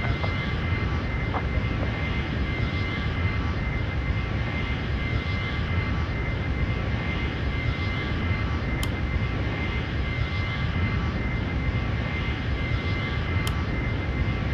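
Boeing 737 jet engines running at a steady, unchanging power: a constant rumble with a high steady whine above it.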